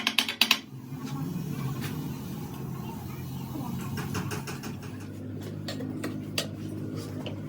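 Rebuilt Honda City car engine cranking with a quick run of clicks, then catching about a second in and running at a steady idle.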